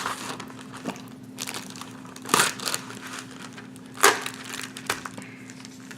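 Plastic film and a plastic meal tray crinkling and crackling in several separate bursts as they are handled, over a steady low hum.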